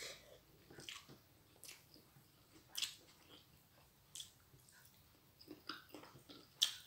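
Close-up chewing and mouth sounds of a person eating food by hand: quiet, irregular wet clicks and smacks, with a sharper smack near the end.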